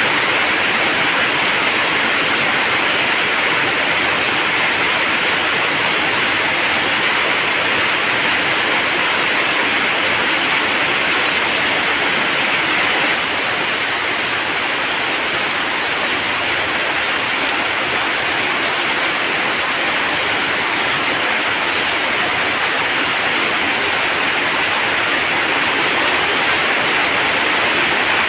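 Heavy rain falling steadily, a dense even hiss that eases very slightly a little under halfway through.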